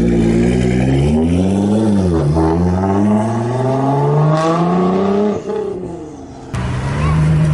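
Supercar engine and exhaust revving, then accelerating with the pitch climbing steadily for about three seconds before it falls away. Near the end it cuts suddenly to another engine running at a steady note.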